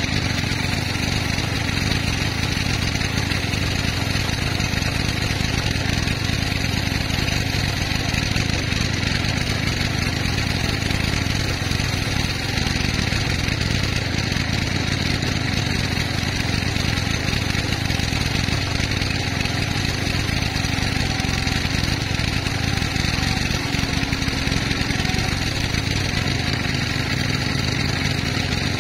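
Sawmill machinery running steadily: a constant mechanical drone with no breaks or changes.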